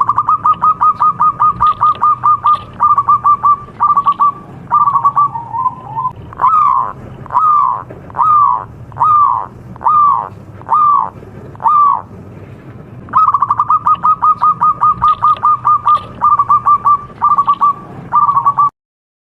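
Zebra dove (perkutut) cooing: a fast trill of clipped notes, then a run of slower separate notes that each fall in pitch, then after a short pause another fast trill that stops abruptly near the end. A faint steady low hum runs underneath.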